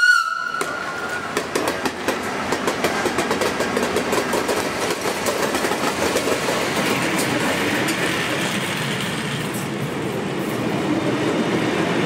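Historic train running on the rails with a steady rumble, its wheels clicking over the rail joints. A horn, sounded before, cuts off about a second in.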